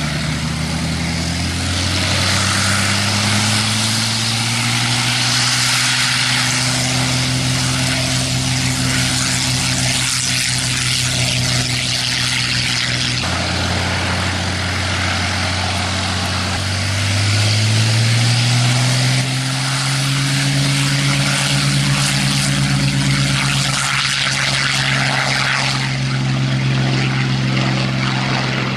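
Propeller-driven piston aircraft engine running; it revs up shortly after the start, drops back about halfway through, and revs up again a few seconds later.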